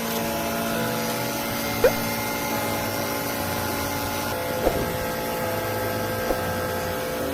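Steady machine hum with several held tones and a low throb, broken by a few short sharp knocks.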